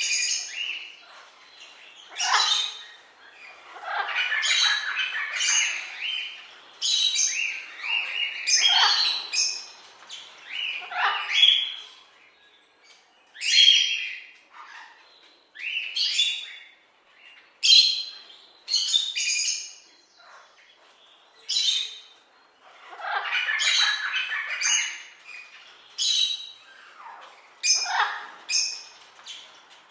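Parrots giving harsh squawks and chirps, one call every second or two, with short gaps between.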